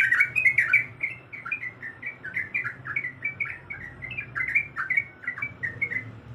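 Yellow-vented bulbul (trucukan) singing a fast, bubbling run of short whistled notes that jump up and down in pitch. The run grows quieter and stops near the end.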